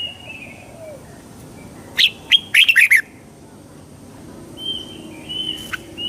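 Red-whiskered bulbul singing: a loud burst of quick warbling notes about two seconds in, with softer drawn-out whistles before and after it, and the next burst starting at the end.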